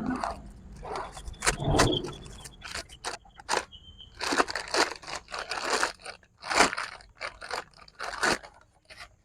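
Crinkling and rustling of plastic and paper packaging, with irregular scrapes and sharp crackles, as a new piston and barrel kit is unpacked and its parts handled.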